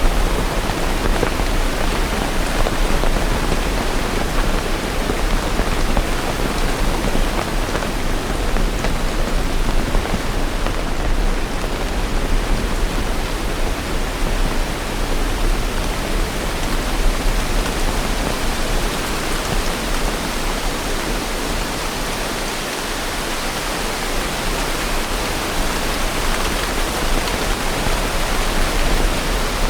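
Steady rain falling: a dense, even hiss of many drops, with no thunder or other events.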